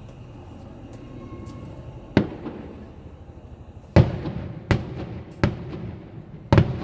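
Aerial fireworks shells bursting: one sharp bang about two seconds in, then four more in quick succession over the last three seconds, each trailing off in a short echoing rumble, over a steady low background rumble.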